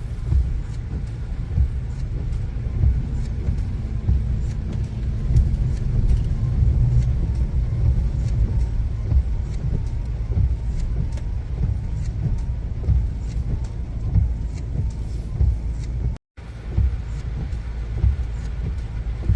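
Road traffic: cars running on a town street, a steady low rumble with faint scattered clicks, broken by a brief cut about 16 seconds in.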